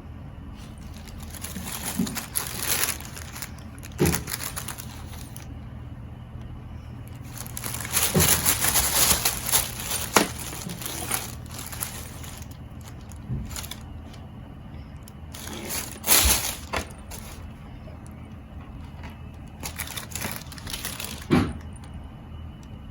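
Irregular bursts of rustling and crinkling with a few sharp knocks, from a cat playing with a toy, over a steady low hum.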